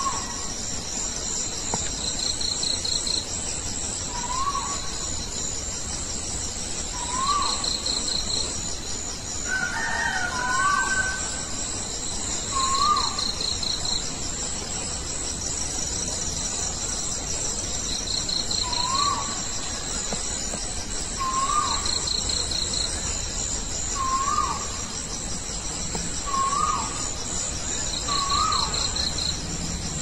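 A night bird calling: a single short note that rises and then drops, repeated every two to three seconds, with a different, higher call about ten seconds in. Crickets trill steadily behind it, with louder chirps every few seconds.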